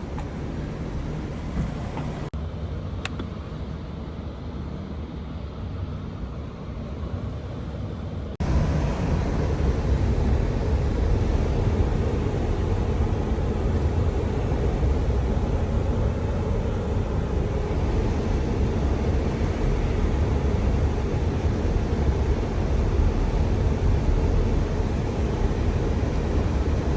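Car road noise: a steady low rumble of tyres and engine. About eight seconds in it jumps suddenly to a much louder rumble and stays there.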